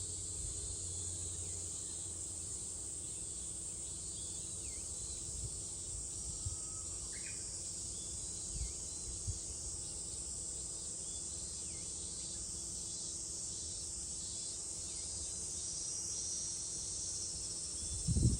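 Steady high-pitched chorus of cicadas in summer, with short chirps repeating about once a second from a bird. A low thump near the end.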